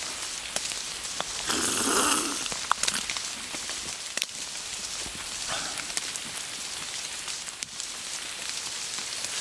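Heavy rain falling, with sharp individual drop ticks close to the microphone over a steady patter. About two seconds in there is a brief louder swell of noise.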